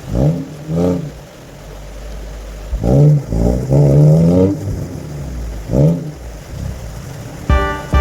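A 4x4's engine revved in repeated short blips, its pitch rising and falling each time over a steady low rumble. Music comes in near the end.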